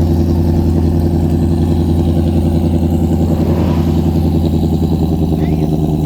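Car engine idling through a loud exhaust: a deep, steady rumble that holds an even pitch, with no revving.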